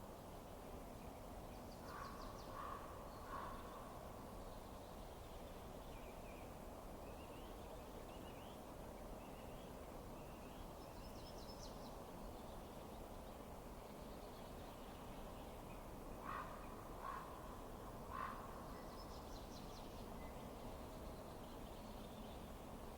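Faint bird calls over a steady low rushing noise: two groups of three short harsh calls, one a few seconds in and one about three quarters through, with higher chirps and short trills in between.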